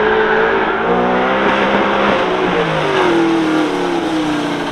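Car engine revving up and easing off as it is driven hard through an autocross course, its pitch rising and falling twice.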